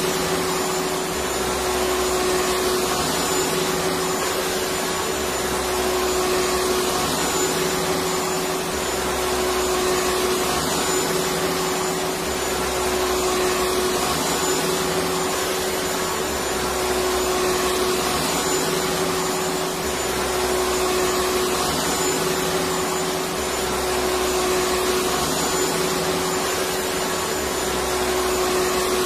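Electric vacuum cleaner running steadily: a dense, even rush of air noise with a constant hum, swelling slightly about every four seconds.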